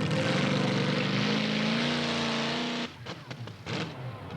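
Competition pulling tractor's engine running hard, its pitch climbing as it revs, then cutting off abruptly about three seconds in.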